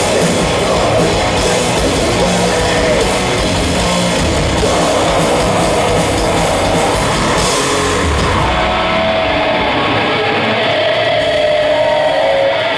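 Live heavy metal band playing loud, with electric guitar, bass and drums and crashing cymbals; about two-thirds of the way through the drums drop out and a guitar rings on alone with sustained notes.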